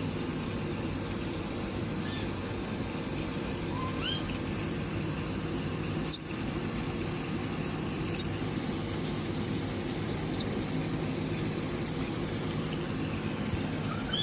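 Newly hatched nestlings giving short, high-pitched peeps about every two seconds, the loudest about six seconds in, over a steady low hum.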